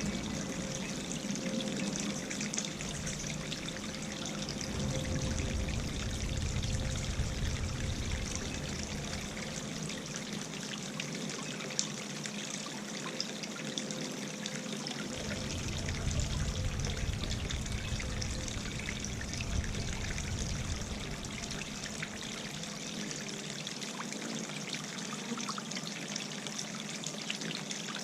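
Garden fountain water trickling and splashing steadily, with gusts of wind rumbling on the microphone now and then.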